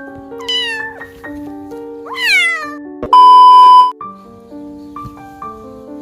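A kitten meowing twice, each meow falling in pitch, over background piano music. About three seconds in, a loud steady electronic beep sounds for just under a second.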